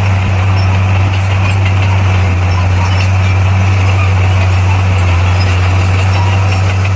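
Bulldozer's diesel engine running loud and steady at a constant pitch, without revving.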